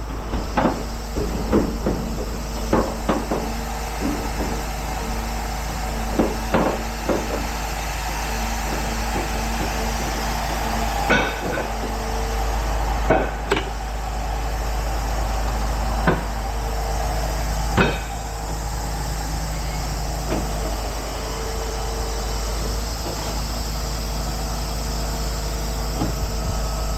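Truck engine idling steadily, with a run of sharp metal clanks and knocks over it, most frequent in the first several seconds and a few louder ones in the middle.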